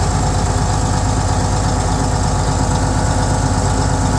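Fiat-Allis HD21B crawler dozer's diesel engine running steadily at a low, even speed.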